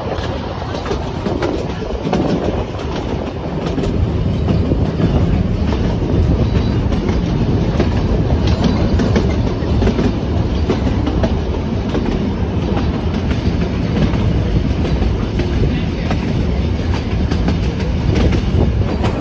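Puffing Billy narrow-gauge steam train running along the track, heard from aboard an open-sided carriage: a steady rumble of wheels on rails with faint repeated clicks, growing louder about four seconds in.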